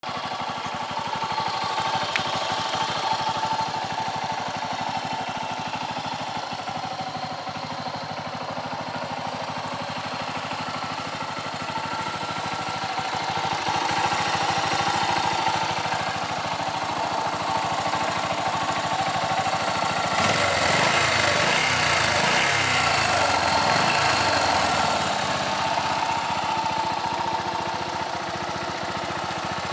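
1989 Yamaha SRX400's air-cooled single-cylinder four-stroke engine idling with a steady pulse. About twenty seconds in it is revved up and down for a few seconds, then settles back to idle.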